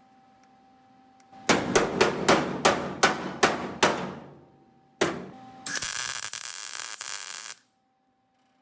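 Hammer blows on sheet steel, about eight sharp ringing strikes in quick succession and then one more, during bodywork on the Beetle's engine tray and bumper bracket. Near the end comes a loud, steady two-second burst of noise that cuts off sharply.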